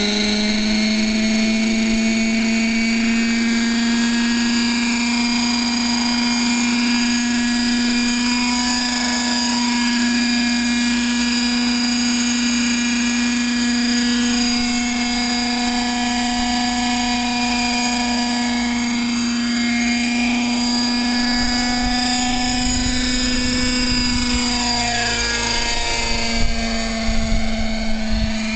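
Radio-controlled helicopter running with a steady, high motor-and-rotor whine. The pitch sags briefly and recovers near the end, with some low gusty rumble over the last few seconds.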